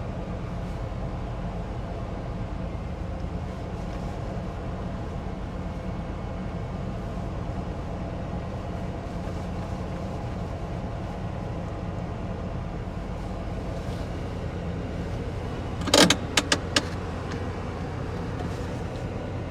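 1992 GMC pickup's engine idling steadily. About three-quarters of the way through come a few sharp clicks in quick succession.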